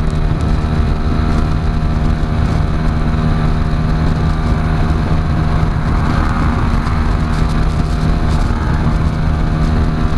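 Keeway RKS motorcycle engine running at a steady cruising speed, its pitch holding level, with heavy wind buffeting the microphone.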